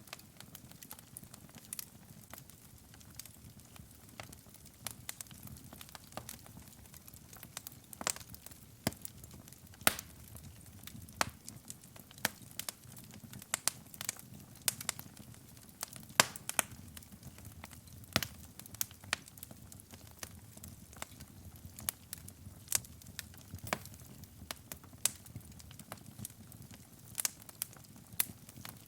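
Wood fire burning in a fireplace: a low steady rumble of the flames with irregular crackles and sharp pops from the burning logs.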